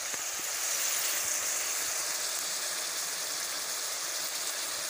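Chicken, onion, tomato and capsicum sizzling steadily in oil in a karahi, left on a low flame to cook through.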